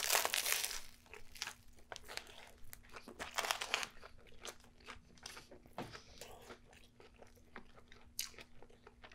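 Close-up eating sounds: a bite into a toasted sandwich roll filled with crispy fried chicken, bacon and onion rings gives a loud crunch in the first second. Softer crunchy chewing with scattered crackles follows.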